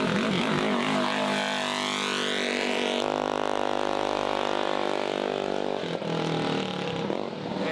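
Mini bike engine revving up, its pitch rising for a couple of seconds, then holding steady at high revs before dropping away about six seconds in.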